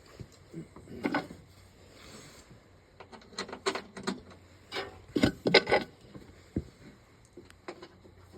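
Irregular knocks and clatter of parts and tools being handled on a workbench, with a short cluster about a second in and a busier run from about three to six seconds in.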